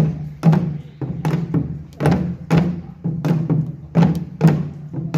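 Korean pungmul percussion playing: drums struck hard in a quick, driving rhythm that starts suddenly.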